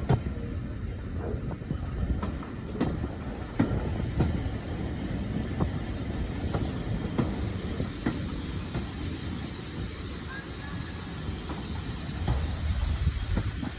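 A train rolling along the track with a steady low rumble and scattered sharp clicks of its wheels passing over rail joints.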